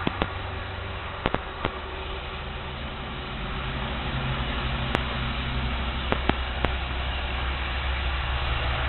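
Steady hissing noise with a low rumble that grows louder about halfway through, and several sharp clicks scattered throughout.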